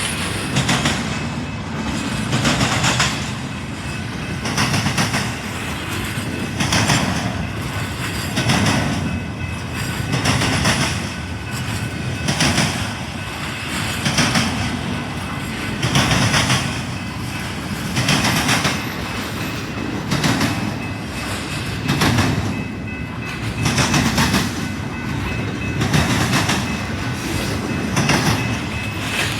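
Train cars rolling past, the wheels clattering in an even rhythm of about one burst every two seconds, with a faint steady high ringing under the clatter.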